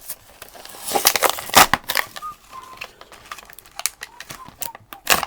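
Toy packaging being handled and torn open by hand: irregular crackling and crumpling, loudest about a second in and again near the end.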